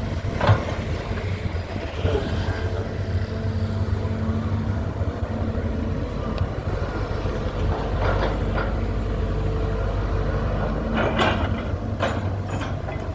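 Excavator's diesel engine running steadily under working load while it pulls up water hyacinth and mud, with a few short knocks.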